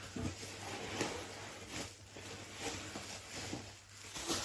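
Packing paper and a cardboard Funko Pop box being handled, a string of soft, irregular rustles and scrapes.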